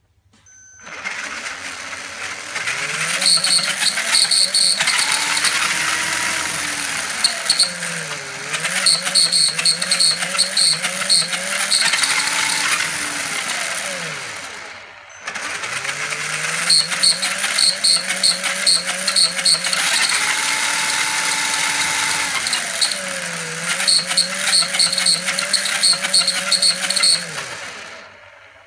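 Tamiya CC-01 RC car's Sport-Tuned electric motor and drivetrain whining, rising and falling in pitch with the throttle, in two runs with a brief stop about halfway. Over the whine come repeated bursts of high metallic ringing from the front gearbox at mid throttle, which turned out to be a worn bearing.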